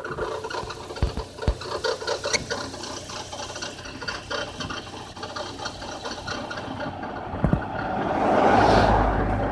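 A car making a fast, irregular rattling and ticking noise. About eight seconds in, a louder rush with a low rumble swells up, then eases.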